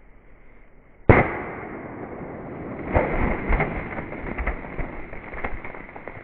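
A single pistol shot from a Kel-Tec PMR30 in .22 WMR about a second in, then, from about three seconds in, soda cans bursting and spraying: several sharp pops over a steady hiss of spraying soda.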